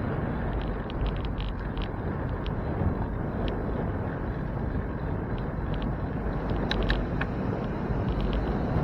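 Wind on the microphone and road rumble from a moving bicycle, with scattered light clicks and rattles and a short cluster of them about seven seconds in.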